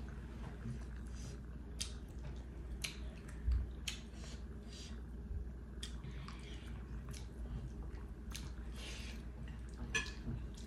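Close-up chewing and wet mouth sounds of people eating rice and curry by hand. Irregular soft smacks and clicks, with fingers squishing the food on the plate.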